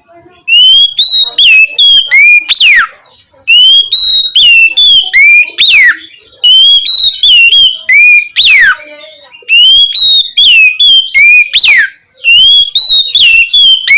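Oriental magpie-robin singing loud, clear whistled phrases. There are four of them, about three seconds apart, each a run of short rising and falling notes that ends in a long falling whistle.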